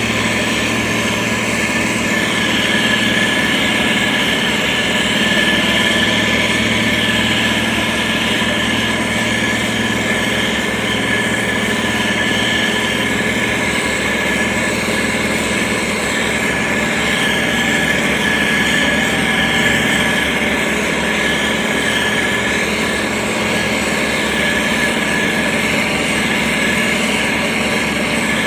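Heavy diesel engine of a SANY STG190C-8S motor grader running steadily as the machine works soil.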